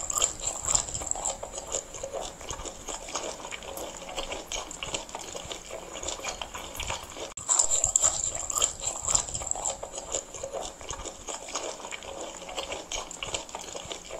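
Close-up chewing and crunching of a crunchy mixed snack of roasted beans, corn, green peas and peanuts, a dense run of small crackles. It is loudest near the start and again about halfway through.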